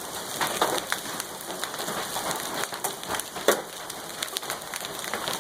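Large hailstones pelting down in a heavy hail storm: a dense, continuous clatter of many small impacts, with a louder single strike about three and a half seconds in.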